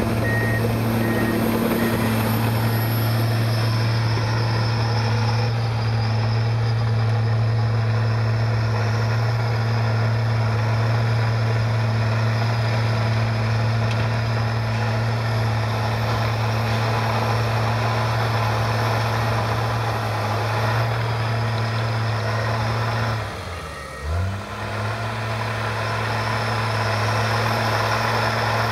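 Komatsu bulldozer's diesel engine running steadily, with a backup alarm beeping during the first second. Late on, the engine briefly drops in pitch and level, then comes back up to speed.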